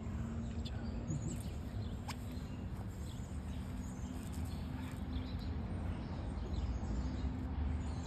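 Scattered faint, high bird chirps over a steady low rumble and hum.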